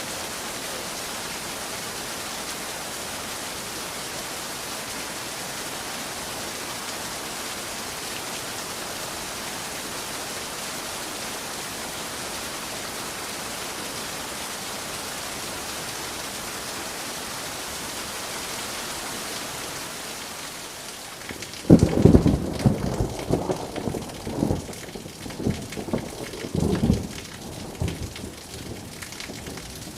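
Steady rain hissing for about twenty seconds, then a sudden nearby thunderclap about two-thirds of the way in, followed by several seconds of crackling, rumbling thunder as the rain carries on more softly.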